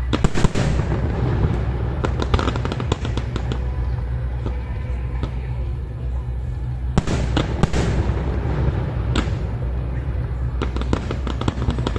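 Fireworks display: shells bursting with sharp bangs and crackling over a steady low rumble. There is a cluster of bangs about half a second in, crackle after it, more bangs around seven and nine seconds, and crackling again near the end.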